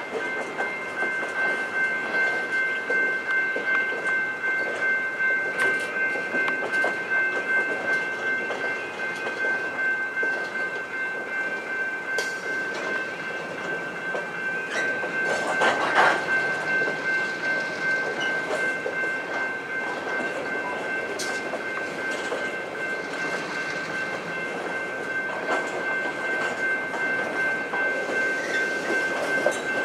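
Freight train of covered hopper cars rolling past at a grade crossing. The wheels rumble on the rails, with a few sharp clanks and a steady high-pitched ringing held throughout.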